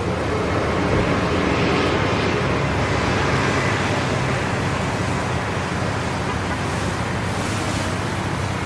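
Steady car engine and road noise, swelling slightly a couple of seconds in.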